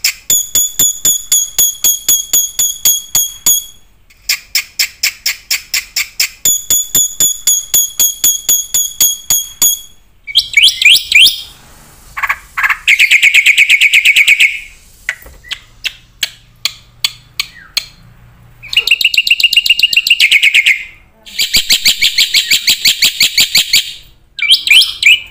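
Bird calls: loud, high-pitched notes repeated evenly at about five or six a second. Partway through they give way to longer buzzy trills and bursts of rapid notes.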